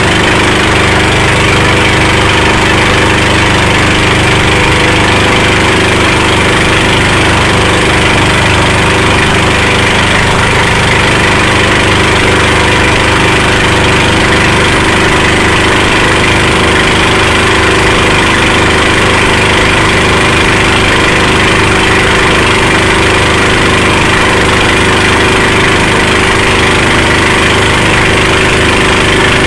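Motorboat engine running steadily and loud at a constant speed, with no change in pitch.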